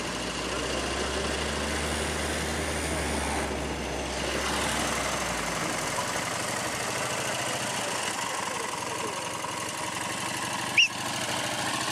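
Engine and road noise of a moving ARO off-road vehicle, heard from inside the vehicle. It is a steady drone, its deep hum drops away about halfway through, and a short high squeak sounds near the end.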